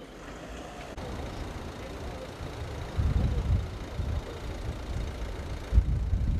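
Car engine idling and creeping slowly forward, a low rumble that grows louder about halfway through.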